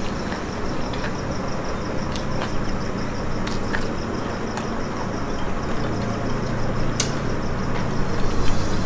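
Close chewing of fried chicken pakora, with a few short sharp crunches or clicks, over a steady background hiss and hum.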